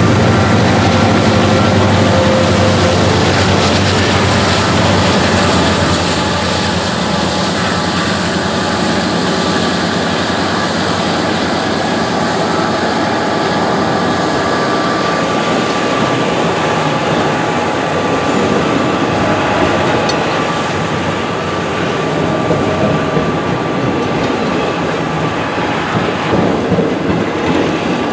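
Diesel-electric freight locomotives, an EMD SD70M-2 and an EMD SD60, passing close under power as the train accelerates. After about six seconds their engine sound eases into the steady rumble of autorack freight cars rolling past on the rails.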